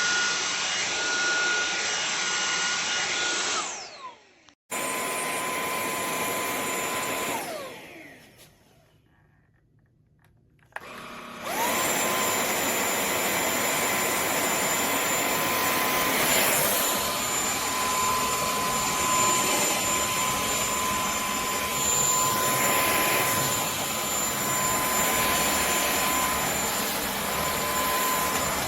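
Cordless stick vacuum motor running with a steady high whine. It winds down when switched off twice. After a click about eleven seconds in it spins back up and runs steadily.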